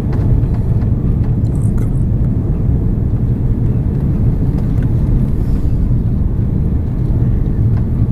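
Airbus A330-302 cabin noise on approach: a steady low roar of the engines and rushing air, even in level throughout.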